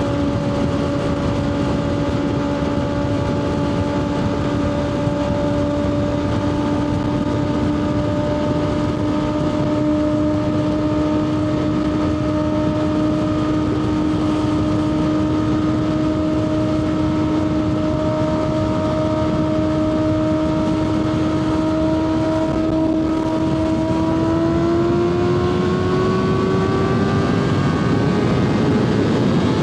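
Kawasaki ZX-6R inline-four engine running hard at a steady high speed under wind rush, its pitch creeping up slowly, then climbing more clearly near the end as the bike accelerates.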